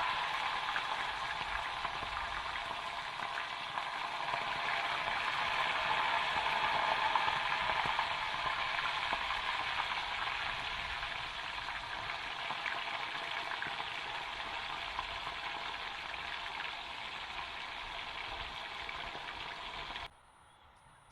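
Chicken frying in hot oil: a steady sizzle with fine crackling, which cuts off abruptly near the end.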